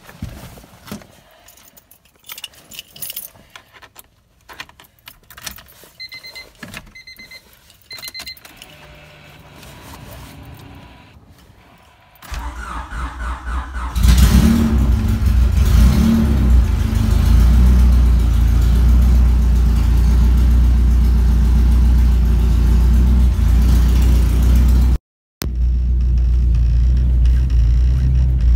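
Keys jangling and small clicks, then three short electronic chime beeps from the car. About twelve seconds in the starter cranks for roughly two seconds, the engine catches with a quick rev or two and settles into a loud, steady idle.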